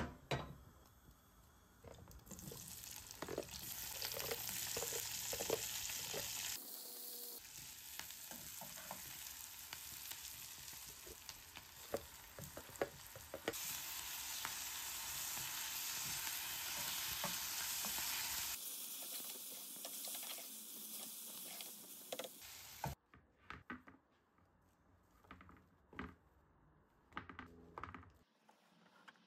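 Sliced onion and ginger-garlic paste sizzling as they fry in a small pan, with a metal slotted spoon clinking and scraping as it stirs. The sizzling stops abruptly about three quarters of the way through, leaving only a few light taps and knocks.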